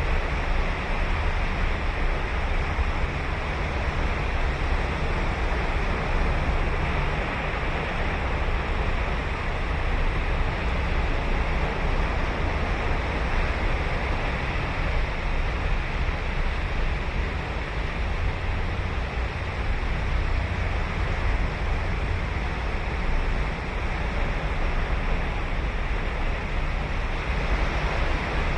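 Ocean surf breaking and washing on a sandy beach, a continuous rush of waves with a deep rumble, with some wind on the microphone.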